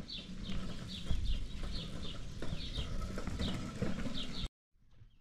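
A bird chirping over and over, short falling chirps about twice a second, over low knocks and rustling; the sound cuts off abruptly near the end.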